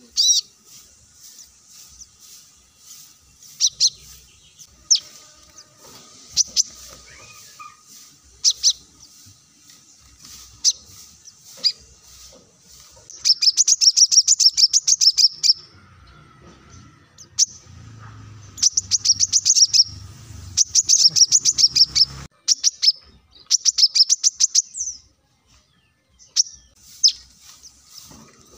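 Kolibri kelapa (brown-throated sunbird) singing: sharp, high single chips at first, then several long runs of rapid, high twittering notes lasting two to four seconds each, then single chips again near the end.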